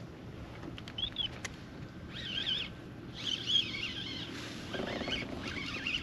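A songbird singing short warbling phrases, four or five in a row, over a low, steady background.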